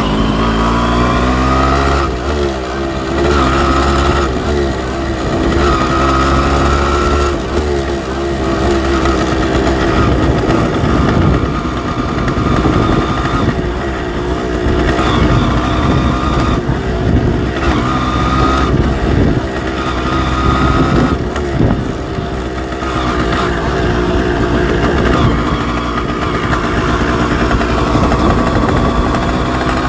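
Yamaha RX135 single-cylinder two-stroke motorcycle engine running and being revved up and down. Its pitch rises and falls unevenly, with a few brief drops. It is presented as the sound of a factory-stock rebuild that is not running as it should.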